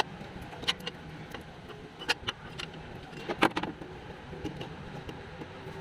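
Metal hand tools clinking and tapping against metal several times, the loudest about three and a half seconds in, over a steady low hum.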